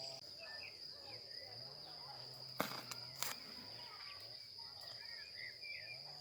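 Forest ambience: a steady high buzz of insects, with short bird chirps. Two sharp clicks come a little over half a second apart near the middle.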